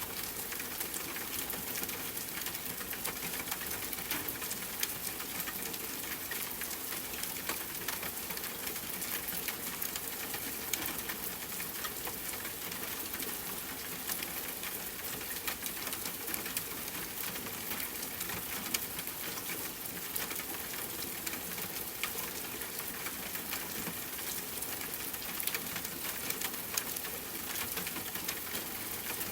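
Steady rain falling, with a campfire crackling: many small sharp ticks scattered through the even hiss of the rain.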